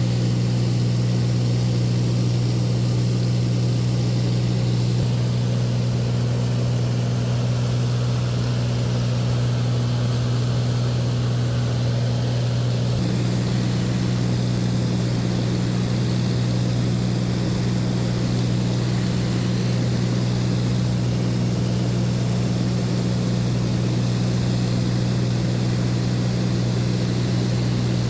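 Light propeller aircraft's engine and propeller droning steadily in flight, heard from inside the cabin, with a slight change in tone about five and again about thirteen seconds in.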